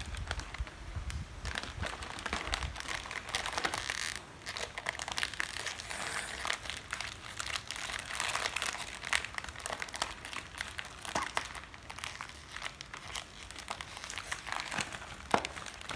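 Plastic snack bag crinkling and rustling as it is handled, with irregular crackles throughout.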